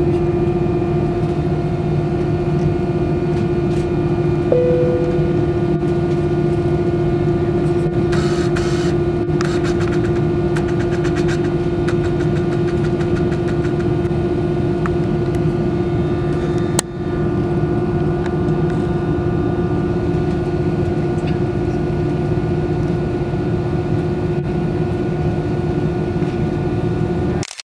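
Airbus A320-200 jet engines and airflow heard inside the passenger cabin: a steady drone with a constant hum. A short beep-like tone sounds about four and a half seconds in, and light clicks and rattles come around the middle.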